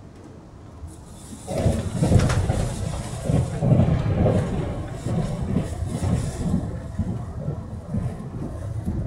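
Taiwan Railways Puyuma Express tilting electric train (TEMU2000) running, its noise rising suddenly about one and a half seconds in to a loud, uneven rumble with hiss that stays loud.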